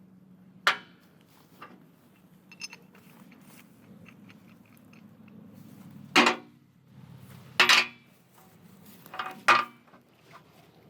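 A few sharp knocks and clanks, four louder ones spaced a second or more apart with smaller clicks between, over a faint low steady hum.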